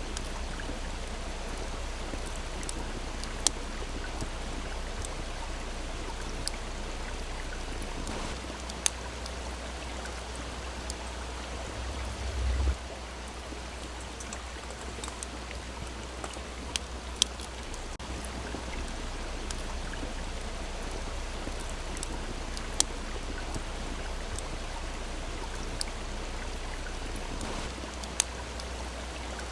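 Steady rush of a small stream with a wood campfire crackling, giving a few scattered sharp pops. A brief low rumble comes about twelve seconds in.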